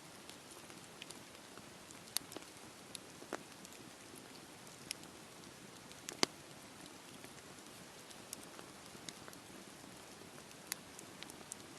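Wood fire crackling in a fireplace: a soft steady hiss with scattered sharp pops, the loudest a little past the middle.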